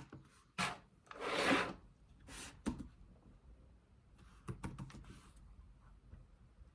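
Desk-top handling noises: a long rubbing slide and a few shorter scrapes, then a quick cluster of sharp clicks, as a keyboard and mouse are moved on the desk.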